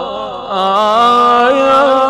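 Wordless vocal lament chant in an Iraqi nai (mourning lament), long held notes that waver and glide in pitch, growing louder about half a second in.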